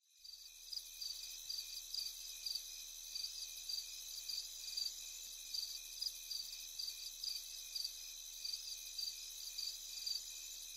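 Insects chirping: a steady shrill chorus with a pulsing chirp about twice a second over it, fading in at the start.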